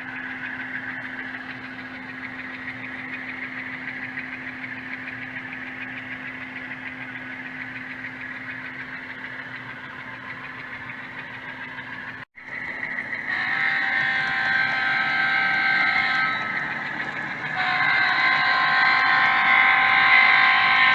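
Sound effects from the HO scale U23B model locomotive's ESU DCC sound decoder. The simulated diesel engine runs with a steady hum. About 12 seconds in, after a brief dropout, a multi-note air horn sounds in two long blasts of about three seconds each.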